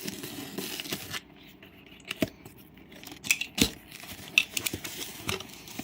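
A heavy plastic MRE pouch being opened and handled: rustling plastic with several sharp clicks or snips scattered through, the clearest about two, three and a half, and four and a half seconds in.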